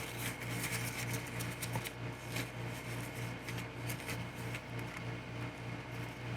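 Acrylic gloss medium and glass bead mix being stirred, giving small irregular clicks and scrapes, over a steady low hum.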